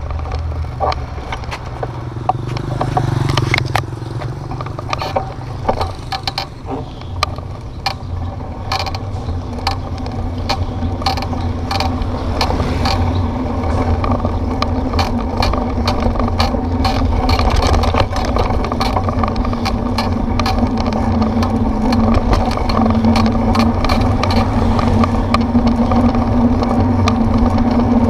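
Bicycle rattling and clicking over a rough road, over a constant low rumble. A steady hum builds up in the second half.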